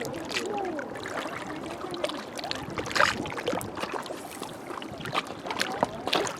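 Small waves lapping and gurgling at the water's edge, with frequent little splashes; the loudest splash comes about halfway through.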